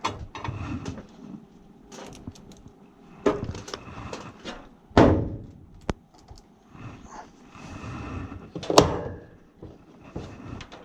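Scattered knocks, clicks and thunks of hands and tools working at an HVAC zoning panel as a wire is disconnected, with the loudest thump about five seconds in and a sharp crack later on.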